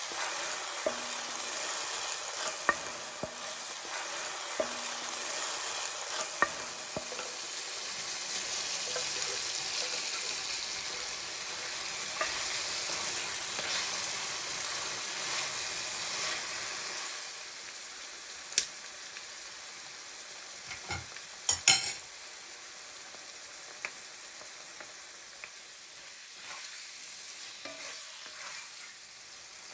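Curry base and chicken pieces sizzling in oil in a pot while being stirred with a wooden spoon. The sizzle turns quieter about 17 seconds in, and a few sharp knocks come about 21 seconds in.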